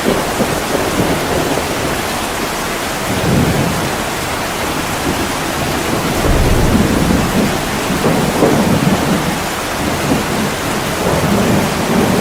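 Heavy rain pouring steadily on a window, with low rolling thunder rumbling beneath it, swelling about three seconds in and building again from about six seconds on.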